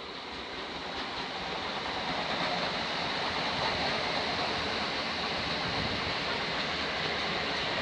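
A train running through the station: a rushing noise of wheels on the rails that grows louder over the first few seconds, then holds steady.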